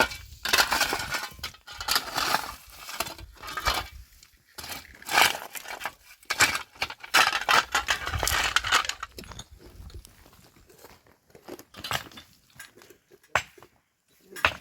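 Irregular rustling and scraping noises from hands at work, with a few sharp clicks near the end.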